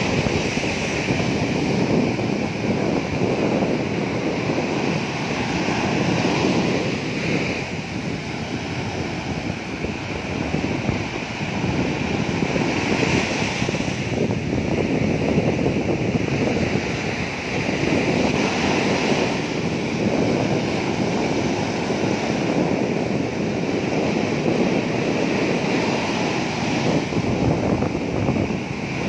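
Sea waves breaking and washing on a sandy beach, a continuous surf that surges and eases every few seconds.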